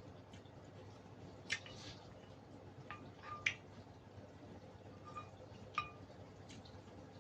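Quiet eating sounds with a few short, sharp clinks of tableware on a plate, each with a brief ring; the loudest come about a third and halfway through.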